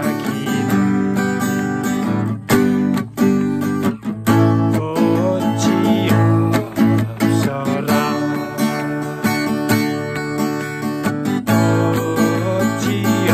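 Acoustic guitar strummed in steady chords, an instrumental passage with brief breaks between strums.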